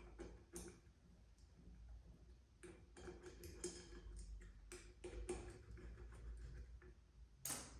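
Faint, scattered light metallic clicks at uneven intervals as brake-rotor bolts and tools are handled and the bolts are started by hand on the wheel, with a sharper click near the end.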